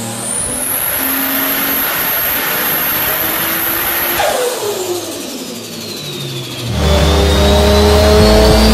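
Mk4 Toyota Supra's 2JZ inline-six at full throttle on a chassis dynamometer, revs climbing and then held. About four seconds in, the revs fall away as the pull ends. After a cut near the end, a second Supra starts a dyno pull, louder, its engine note rising.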